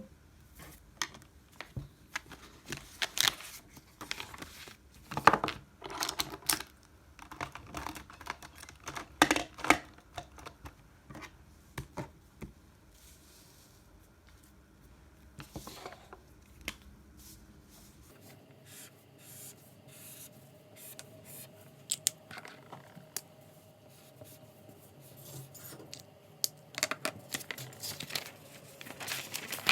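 Paper being handled at a desk: irregular rustling, crinkling and tearing-like sounds mixed with scattered clicks and taps.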